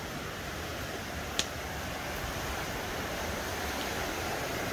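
Steady rushing of river water flowing over rocks, with one brief click about a second and a half in.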